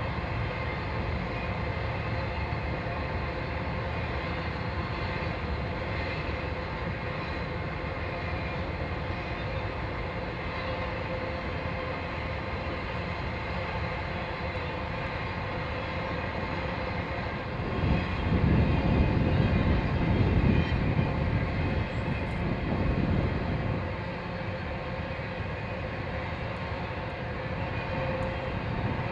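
Train running, a steady mechanical drone holding several even tones, with a louder low rumble from about 18 to 24 seconds in.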